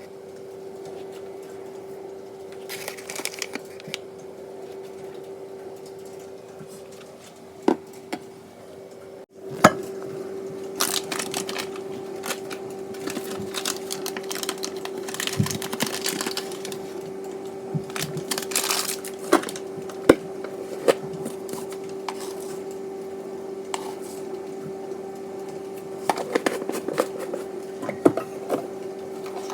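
Kitchen cooking sounds: a steady electric hum with many short clicks, clinks and crackles over it. The hum drops out briefly about nine seconds in.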